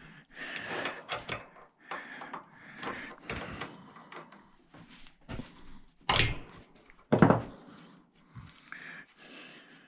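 Small brass and copper scrap being worked by hand at a bench: scattered clicks, scrapes and clanks of metal and tools, with two louder knocks about six and seven seconds in, the first with a brief ring.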